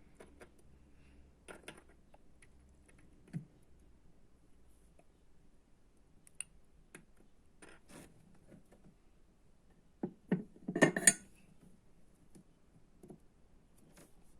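Scattered light clicks and taps from small tools and electronic parts being handled on a work surface, with a louder clatter of several quick knocks near the end.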